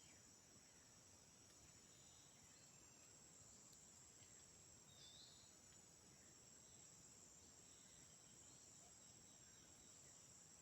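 Faint, steady, high-pitched chorus of insects in the rainforest, with a brief soft chirp about halfway through.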